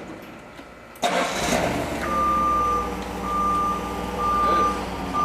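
A forklift engine starting abruptly about a second in and running steadily. From about two seconds in its reversing alarm beeps about once a second.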